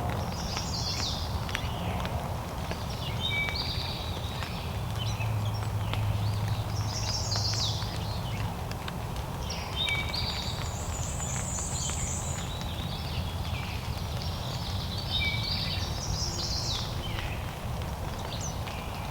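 Songbirds singing short, high song phrases, a new phrase every two to three seconds, over a steady low rumble.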